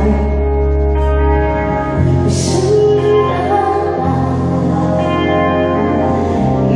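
Band music: guitar over held bass notes that change a couple of times, with a cymbal crash about two seconds in.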